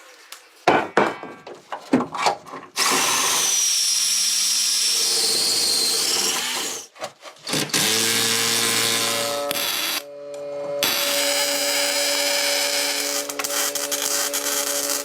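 A handheld power tool running in three long spells, each a few seconds, with brief stops between them. A few sharp knocks come before the first spell.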